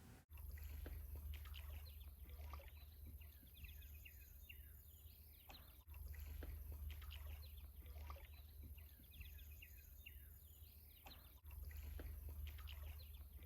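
Faint outdoor chorus of small birds: many short, quick chirps and song phrases over a low steady rumble, broken by two sudden cuts.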